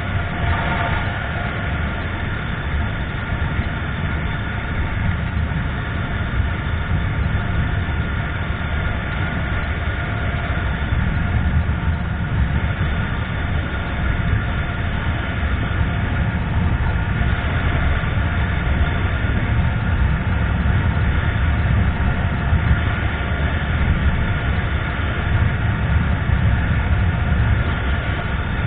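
Motorcycle on the move: steady wind rush over the microphone with the engine's low, even drone underneath.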